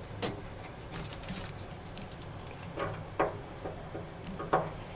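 Hands working parts loose inside a pickup truck door: a few light knocks and clicks with some rustling, the sharpest about three seconds in and just before the end, over a low steady hum.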